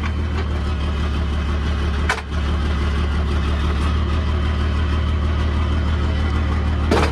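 Rollback tow truck's engine idling steadily, with a sharp click about two seconds in and another near the end.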